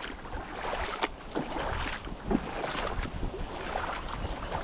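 Boots wading through shallow water on a flooded trail, with uneven splashing and sloshing at each step.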